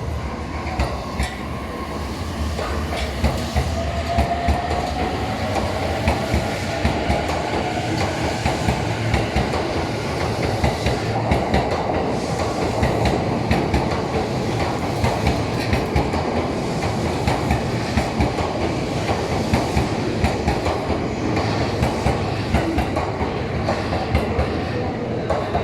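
Electric train running along the platform, its wheels clattering steadily over rail joints, with a motor whine rising slightly in pitch for a few seconds.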